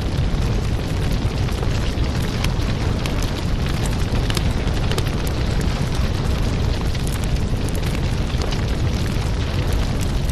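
Firewood burning, with a steady low rumble under frequent sharp crackles and pops.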